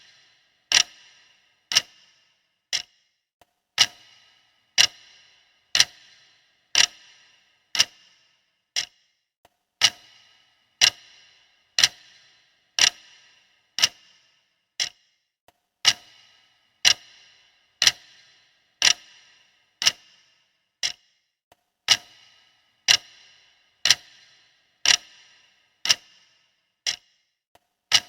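Mechanical clock ticking steadily, about one tick a second, each tick a sharp click with a brief metallic ring, some ticks louder than others.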